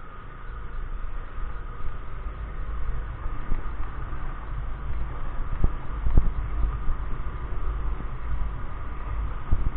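Wind buffeting a helmet-mounted microphone while riding a SYM Joymax Z+ scooter, with the engine's steady drone underneath. A few sharp knocks come about six seconds in and again near the end.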